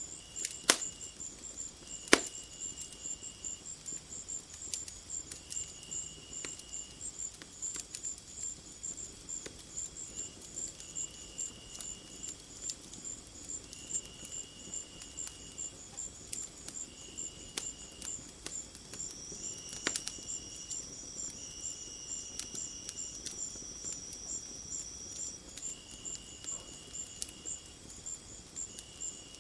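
Crickets chirping in a steady high-pitched pulse about three times a second, with a second insect trilling in short bursts. A wood fire gives a couple of sharp crackles in the first few seconds.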